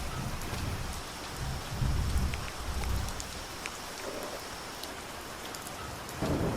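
Steady tropical rain falling, with scattered drops ticking on nearby surfaces. A low rumble of thunder comes about two seconds in. The rain grows louder just before the end.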